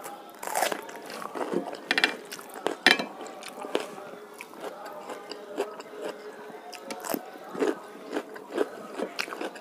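Close-miked chewing and wet mouth sounds of a mouthful of rice and curry eaten by hand. The chewing clicks keep coming throughout, with the sharpest, loudest crunches about two and three seconds in.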